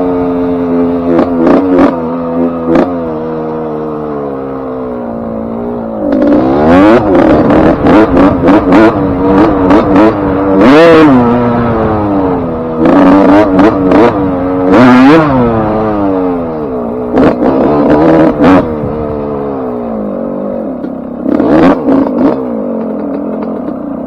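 Suzuki RM125 two-stroke motocross engine running, on a freshly rebuilt top end with a new piston ring and wrist pin. It holds a steady note with a few quick throttle blips for the first several seconds. It then revs up and down repeatedly for about ten seconds as the bike is ridden, and settles again with a couple of blips near the end.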